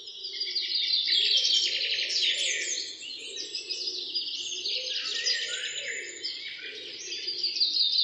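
Many small birds chirping together: a dense, overlapping chorus of quick high notes.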